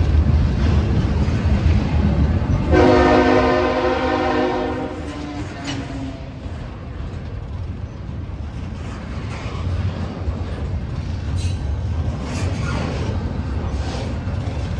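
Double-stack container freight train rolling past close by, a steady low rumble of wheels on rail. A locomotive air horn sounds a multi-note chord for about two seconds a few seconds in, and starts again at the very end.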